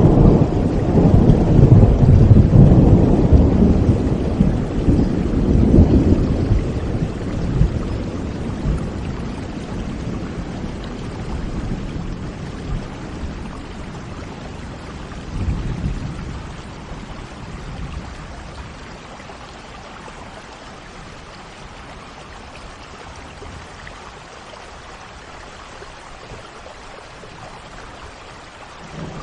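Steady rain with rolling thunder: a long loud rumble at the start dies away over several seconds, a shorter rumble comes about halfway, then the rain goes on alone.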